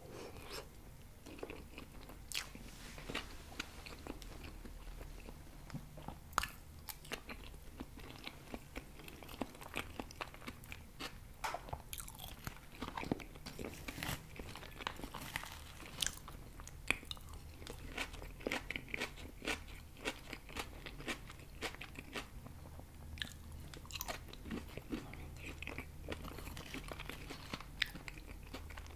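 A person chewing and biting food close to the microphone: wet chewing with many short crisp crunches and clicks scattered throughout.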